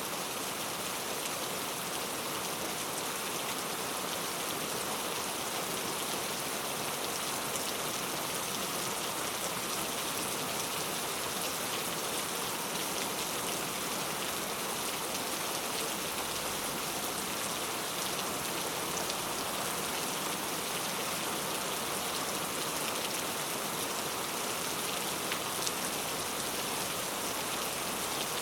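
Steady rain falling, an even hiss of many drops with occasional faint individual drop ticks.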